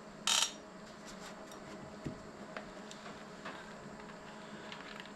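Plastic push-pin trim clip pressed home: a short sharp snap about a third of a second in, then a few faint light clicks.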